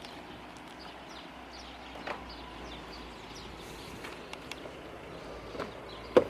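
Quiet outdoor background with scattered small clicks and faint bird chirps, a couple of soft knocks, and a single sharp thump just after six seconds in.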